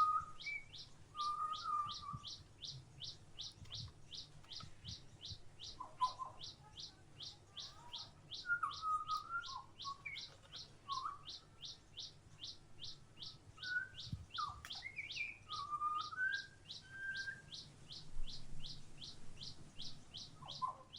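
Wild birds calling at a backyard feeder: a long, even series of high, short down-slurred chips repeating about three times a second, with other, lower chirps scattered between them.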